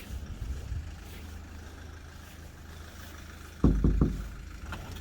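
Steady low rumble of a vehicle running, with a loud burst of three quick low thumps about three and a half seconds in.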